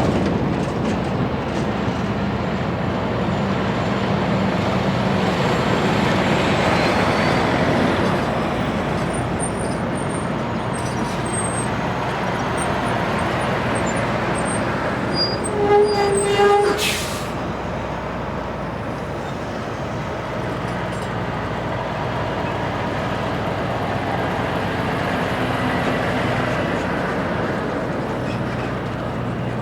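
Steady rumble of passing heavy vehicles, engine hum under road noise. About halfway through, a single-note horn sounds for about a second, followed at once by a short sharp hiss of released air.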